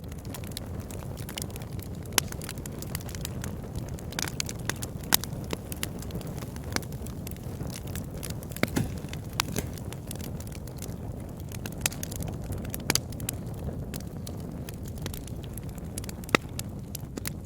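Fire burning in a fireplace, crackling, with frequent irregular sharp pops over a steady low rumble from the flames. A few pops stand out louder than the rest.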